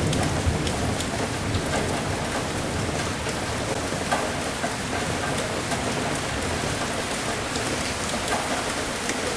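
Steady rain falling, with many separate drops ticking close by. A low rumble of thunder dies away in the first second.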